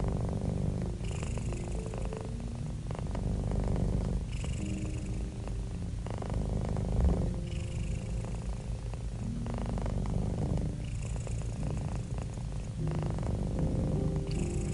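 Domestic cat purring, a steady low rumble that swells with each breath about every three seconds.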